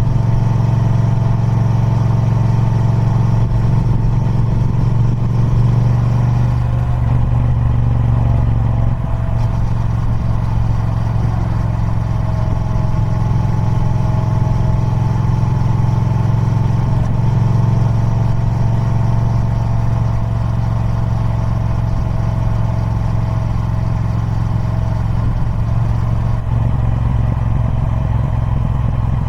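Triumph Speed Twin 1200's 1200cc parallel-twin engine running through its stock exhaust, holding a steady engine speed with a few small changes in pitch along the way.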